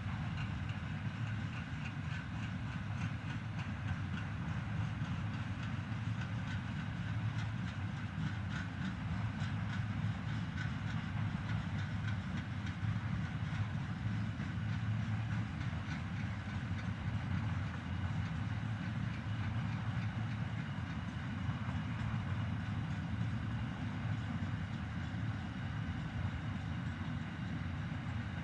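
Freight train rolling past on the rails: a steady rumble of wagon wheels, with a run of clicks over rail joints in the middle.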